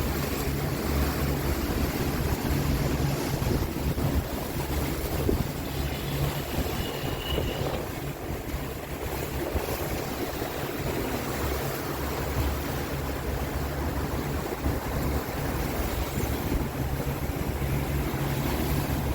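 Tour boat's motor running with a steady low drone, over wind buffeting the microphone and water rushing past the hull. The drone fades for a while midway and comes back strongly near the end.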